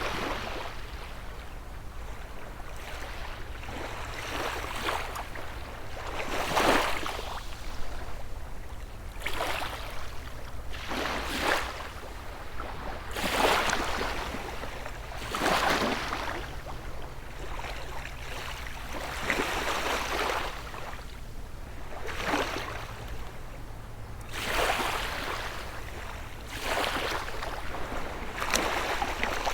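Small, gentle sea waves breaking and washing on the shore, a fresh surge every two to three seconds that swells and hisses away, over a steady low rumble.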